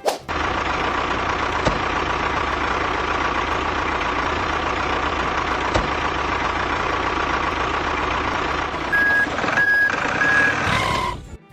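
Truck engine running steadily, with a reversing alarm beeping three times near the end before the sound cuts off suddenly.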